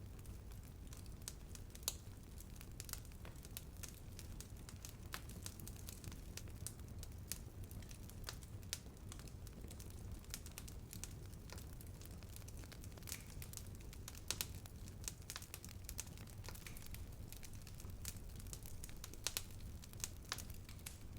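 Wood fire burning with a steady low rumble and irregular crackles and pops, a few of them sharper and louder.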